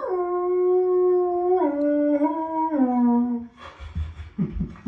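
Dog howling: one long held howl that steps down in pitch twice before breaking off, followed by a few softer whines.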